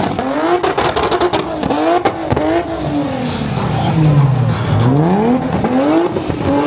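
A car engine revving hard over and over, its pitch climbing in quick repeated rises; around four seconds in it drops low and then climbs again.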